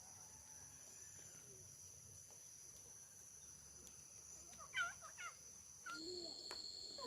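Quiet rural background with a steady high-pitched insect drone, and a few short chicken calls about five seconds in.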